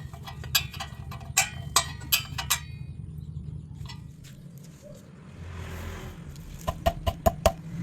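Light metal-on-metal clinks and taps with a short ring, in a quick cluster at the start and again near the end, over a low steady hum.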